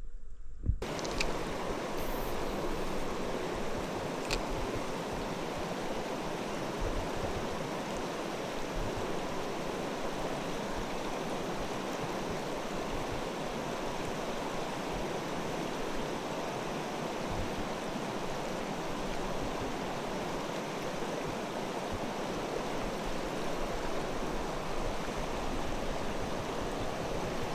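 Clear mountain stream flowing: a steady, even rush of running water that sets in about a second in.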